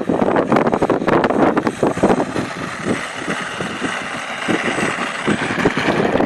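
RC model Pitts Special biplane's motor and propeller buzzing as it flies past. It grows louder from about two seconds in and fades near the end, over wind buffeting the microphone.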